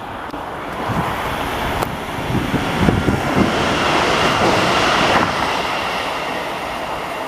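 Train passing along the platform, its noise building to a peak about four to five seconds in and then easing off, with a run of low knocks in the first half.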